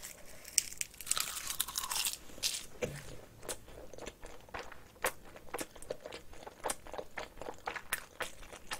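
Close-miked chewing of a mouthful of spicy cockle rice wrapped in seasoned laver: an irregular run of small, crisp crunches and clicks.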